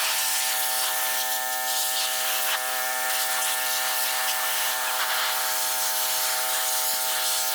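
A power tool's electric motor running steadily: an even, unchanging whine with a strong hiss over it.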